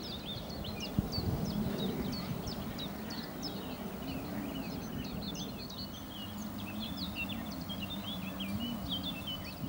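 Songbirds singing, a dense run of short chirps and trills over a low, steady outdoor rumble.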